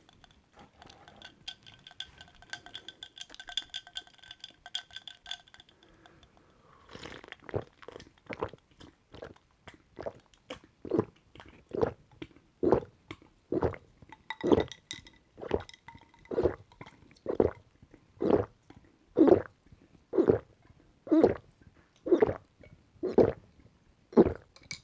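A person gulping down a drink in steady swallows, about one a second, starting about seven seconds in and growing louder. Before that there is a faint, steady high ringing tone for a few seconds.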